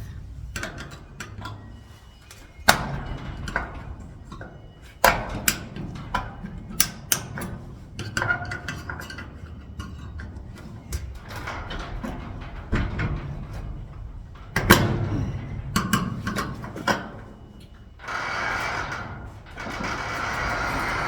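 Irregular metal clicks, taps and knocks of hand tools on garage door lock hardware as a lock washer is worked loose. A steady rushing noise comes in near the end.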